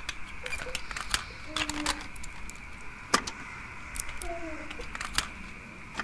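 Scattered sharp clicks and small knocks, about a dozen, over a steady high hiss.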